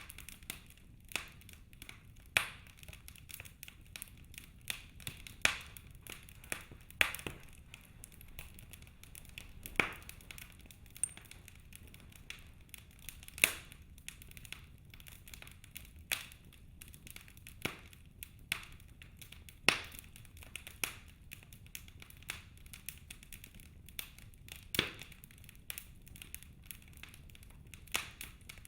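Wood logs burning in a fireplace, crackling with irregular sharp pops, a louder snap every few seconds, over a soft steady low hiss of the fire.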